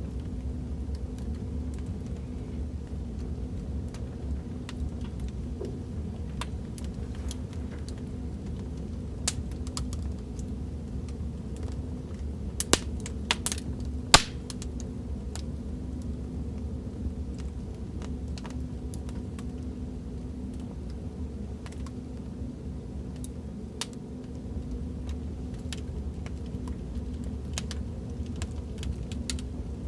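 Fireplace crackling from a sound-effects recording: a steady low rumble of burning wood with scattered sharp pops and snaps, a few louder pops clustered about halfway through.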